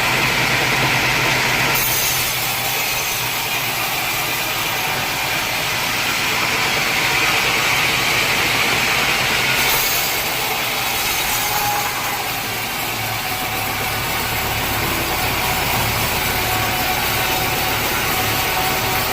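Sawmill saw cutting through a large teak log, with the mill's engine running steadily. The cutting noise changes in character about two seconds in and again about ten seconds in, and a low engine hum grows stronger near the end.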